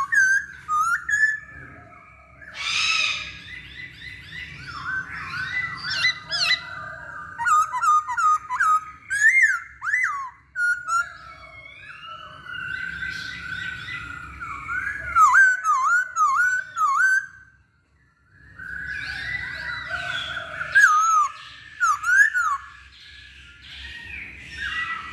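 Chinese hwamei (poksay hongkong) singing a long, varied song of loud whistled phrases: slurred, gliding notes mixed with quick high trills, with a brief pause about three quarters of the way through.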